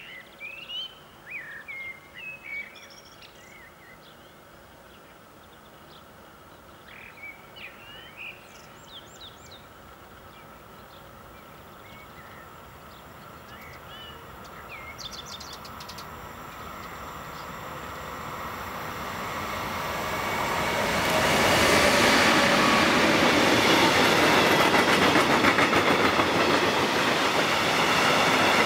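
Birds chirping at first, then a freight train of tank-container wagons approaching, growing steadily louder over about ten seconds, and passing close by with loud, steady wheel-and-rail noise through the last third.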